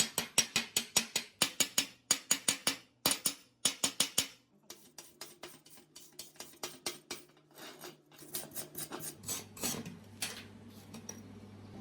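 Fast runs of sharp taps or clicks, about five a second, in several bursts with short pauses between them, over a faint steady hum.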